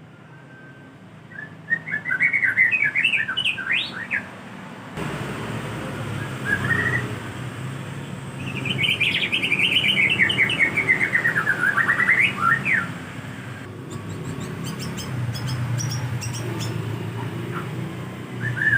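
White-rumped shama singing: two long phrases of quick, varied whistled notes, the second rising and then falling, with a short note between them and another at the end. A low steady background noise comes in suddenly about five seconds in.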